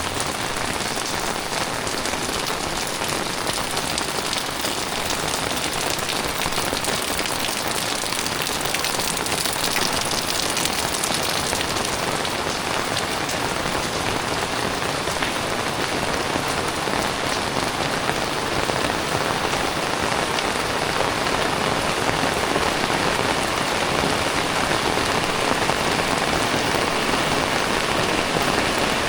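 Heavy tropical rain falling steadily, a dense even hiss of drops hitting the ground and surfaces, slightly louder toward the end.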